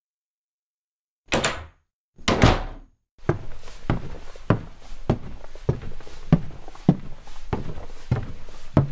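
Sound-effect footsteps walking at a steady pace, about a step every 0.6 seconds, starting about three seconds in over a faint hiss. They follow two short noisy sounds after a moment of silence.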